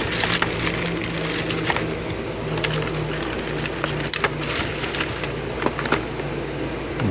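Handling noise of small objects being picked up and rummaged through: scattered light clicks, clatter and rustling, over a steady low hum.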